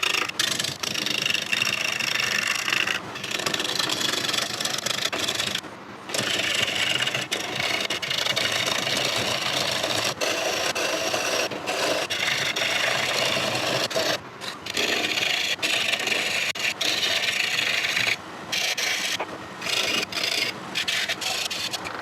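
Gouge cutting a hard rosewood bowl blank spinning on a wood lathe: a continuous rough scraping cut, broken by several short breaks.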